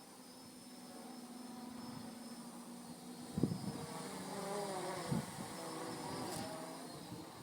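Homemade quadcopter's brushless motors and propellers buzzing, the pitch rising and falling with the throttle. Two short low thumps of wind hitting the microphone about three and five seconds in.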